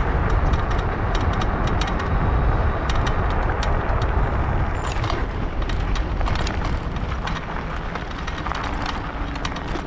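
Rigid bicycle with no suspension rolling over a bumpy road surface: a continuous low rumble from the tyres with many quick rattles and knocks as each bump jolts through the frame and the mounted camera.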